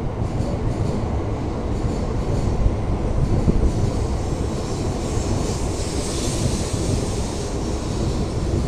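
Shinkansen train cars rolling past close by: a steady rumble of wheels on the rails, with a high hiss swelling about six seconds in.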